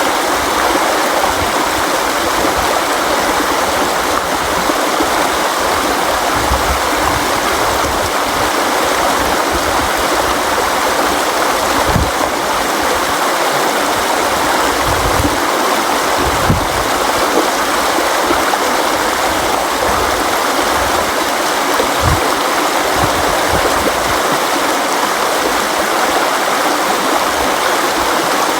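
River water flowing and rushing steadily over rocks, a dense even sound with occasional low gurgling thuds.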